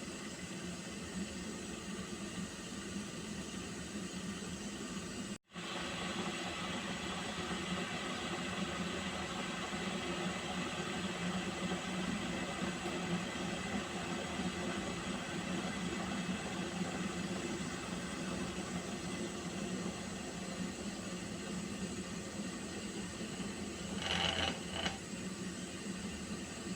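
Steady hiss with a low hum of a pot of water heating on the stove toward the boil, broken by a brief dropout about five seconds in and a short louder crackle near the end.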